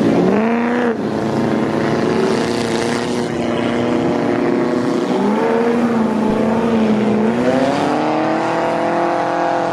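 Lifted mud truck's engine running under heavy throttle, its pitch dipping near the start and rising again twice, about halfway through and later on.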